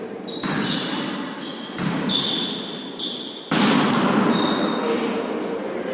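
A volleyball being struck and bouncing on an indoor court, several sharp knocks with the loudest about three and a half seconds in, mixed with short high squeaks of shoes on the floor.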